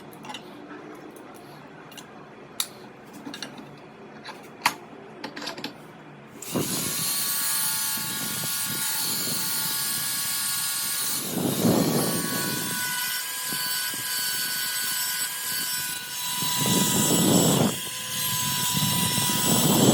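A few light clicks and knocks, then a power tool starts about six and a half seconds in and runs steadily with a high whine. It swells twice, deeper and louder, as if pressed under load, and stops at the end.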